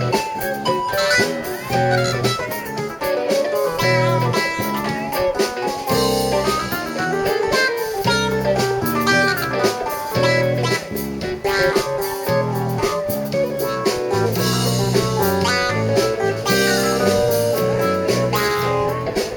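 Blues band playing an instrumental passage, with guitar lines over bass and drums.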